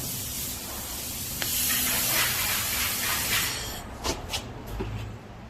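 Handheld fiber laser welder running: a steady spraying hiss that swells and then stops about three and a half seconds in. A few sharp clicks follow, over a low steady hum.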